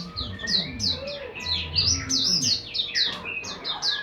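Birds chirping: a rapid run of short, high, downward-sweeping chirps, several a second.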